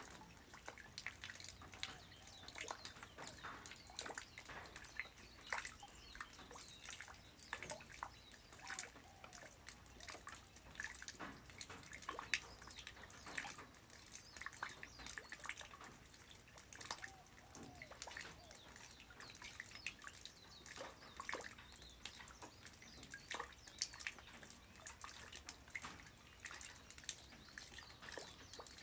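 Light rain falling on the ground, with many scattered drops tapping irregularly over a soft, steady hiss.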